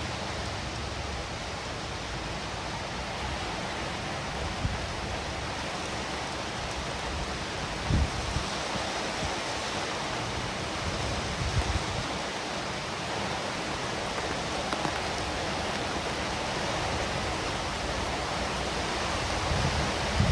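Steady rain, an even hiss, with a few dull low thumps: one about eight seconds in, a couple around twelve seconds, and more at the very end.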